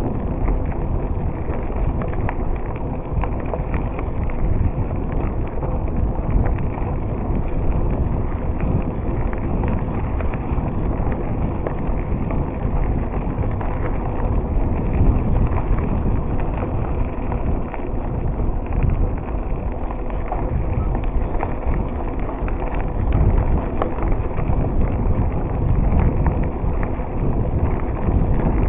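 Wind buffeting the microphone, with the rumble and rattle of a bicycle rolling along a path. The noise is steady with small uneven knocks throughout.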